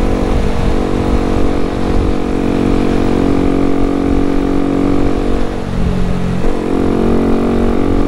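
Honda Grom's small single-cylinder engine running steadily at cruising speed, with a brief dip and change in its note about five and a half seconds in before it settles back to a steady run.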